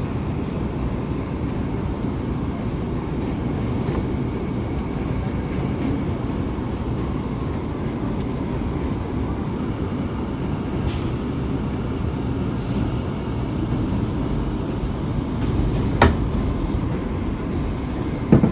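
R179 subway car running at speed, heard from inside: a steady low rumble of wheels on rail, with a sharp clank about two seconds before the end and another right at the end.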